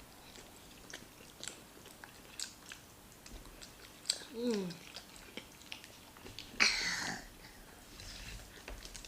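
Close mouth sounds of people eating rice and stew by hand: chewing with scattered wet clicks and smacks. A short falling vocal sound comes about four and a half seconds in, and a brief louder noisy smack or breath near seven seconds.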